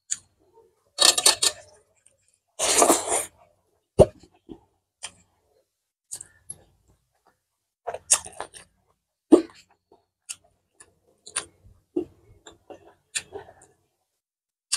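Close-miked mouth sounds of eating pork intestines and rice by hand: intermittent chewing and lip smacks with sharp clicks, one longer noisy burst about three seconds in.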